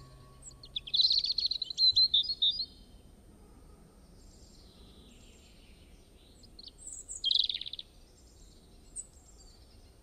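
A songbird singing: a quick, high twittering phrase about a second in that lasts nearly two seconds, a shorter burst about seven seconds in, and a single chirp near the end.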